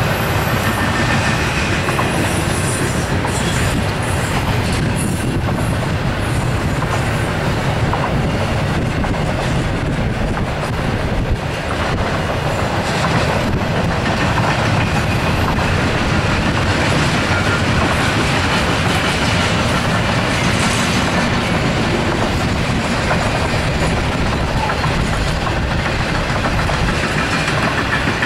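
Intermodal freight cars of a Norfolk Southern train carrying containers and trailers, rolling past with a steady, loud rumble of steel wheels on the rails.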